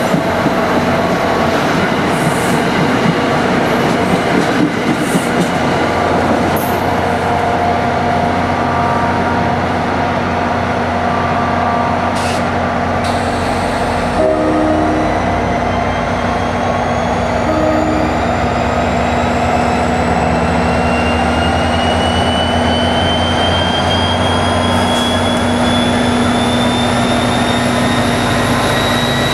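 New Jersey Transit commuter train running loud and steady at close range, with steady hums under its noise. From about halfway through, a whine rises steadily in pitch as the train gathers speed.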